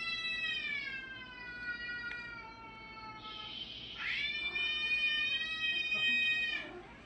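Cats caterwauling from a television: two long, drawn-out yowls. The first slowly falls in pitch; after a brief hiss, the second sweeps up, holds steady and cuts off near the end.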